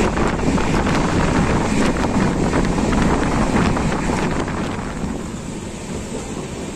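Indian Railways express train running, heard from inside the coach: a steady rumble of wheels on rail with wind rushing across the microphone at the window. It quietens a little about five seconds in.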